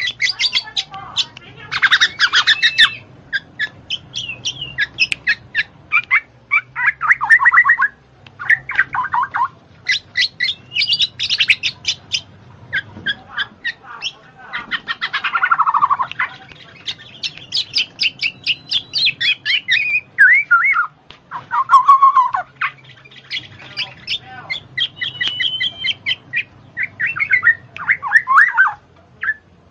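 Bird chattering close up: a near-continuous stream of quick chirps, clicks and squawky warbling, with some notes sliding downward.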